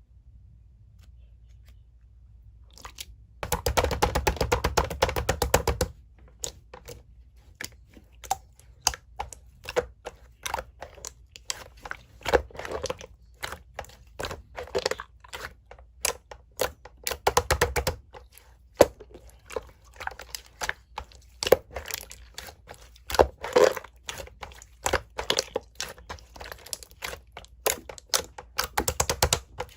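Slime being handled by hand: after a quiet start, a dense stretch of handling noise from about three to six seconds in, then a long run of sharp clicks and pops as it is pressed and stretched.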